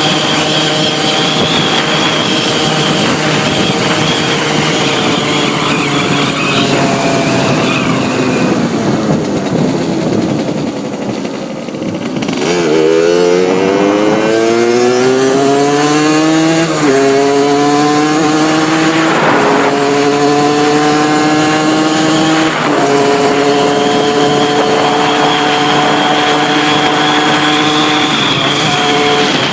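Suzuki SMX motorcycle's RG80 two-stroke single running at speed, heard from on board: it holds high revs, falls off as the rider slows about a third of the way in, then accelerates again, shifting up three times before settling to a steady cruise near the end.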